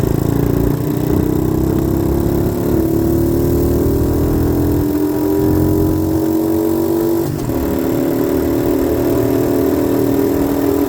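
90cc dirt bike engine running under steady throttle, its pitch slowly rising, then dropping at a gear change about seven seconds in and rising again. A low rumble of wind and road noise runs underneath.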